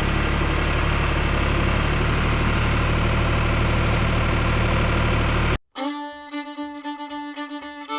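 An engine running steadily at a constant speed, which cuts off abruptly about five and a half seconds in; after a brief silence, bluegrass-style fiddle music starts.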